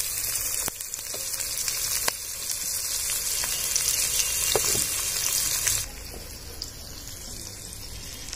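Chopped onions and green chillies sizzling in hot oil in a karai (wok), with a few light clicks. About six seconds in the sizzle cuts off sharply, leaving a quieter, steady hiss.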